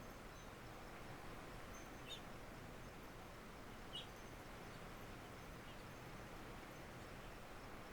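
Steady, faint wind-and-rain noise with a few short bird chirps: one about two seconds in, a slightly louder one about four seconds in, and a fainter one near six seconds.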